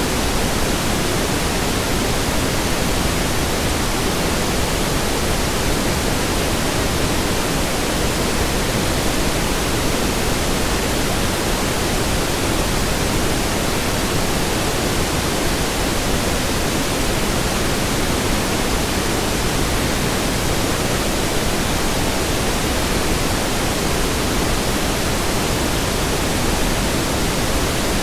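Steady pink noise: an even hiss spread over all pitches, weighted toward the low end, with no change in level.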